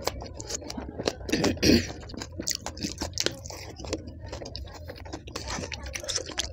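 Close-miked eating of pani puri (golgappe) topped with green chilies: crisp shells crunching and being chewed, with wet mouth sounds and many quick irregular clicks, loudest about a second and a half in.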